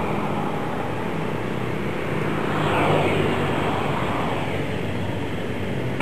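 Steady outdoor engine noise, with a motor vehicle passing close by, loudest about three seconds in.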